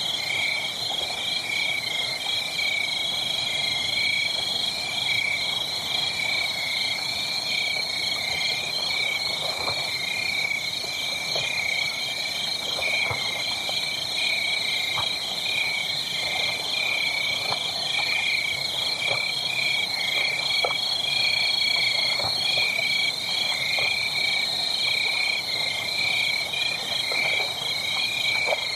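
A steady chorus of calling frogs, many fast pulsed trills overlapping without a break. Scattered faint crackles sit underneath, as from a burning wood fire.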